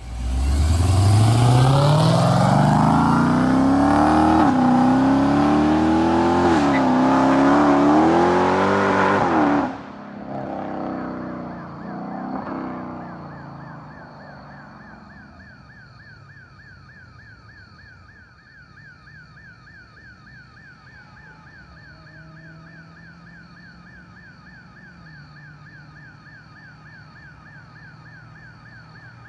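Supercharged 6.2-litre Hemi V8 of a Dodge Charger Hellcat at full throttle through a freshly fitted American Racing exhaust. It is loud, climbs steeply in pitch, then holds and wavers at high revs for about ten seconds before cutting off sharply, with a fainter rumble dying away after it. A faint electronic alarm then keeps up a rapid rising yelp, about two a second.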